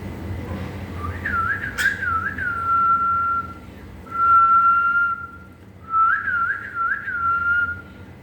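Pet parrot whistling a tune: a quick run of rising-and-falling warbled notes followed by a long, steady held note, then the pattern repeated.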